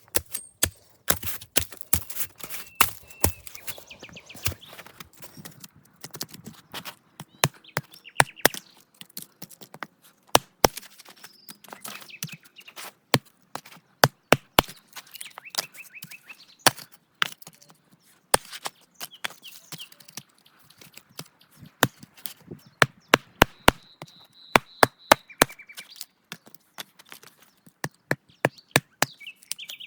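Repeated sharp chopping strikes at an irregular pace, with runs of quick strikes near the end, and faint bird chirps between them.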